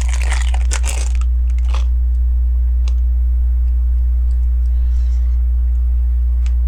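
LEGO bricks and parts being handled: a rustle of plastic pieces for about the first second and again briefly near two seconds in, then a few small scattered clicks of bricks. A steady low electrical hum runs underneath.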